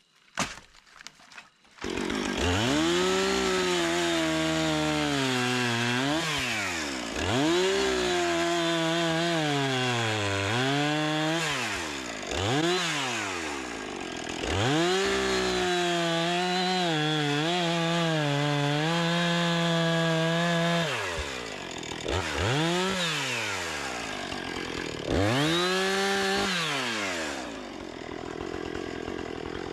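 Gas chainsaw revving to full throttle again and again, its pitch falling back toward idle between runs, as when cutting wood. It starts about two seconds in, after a few sharp knocks.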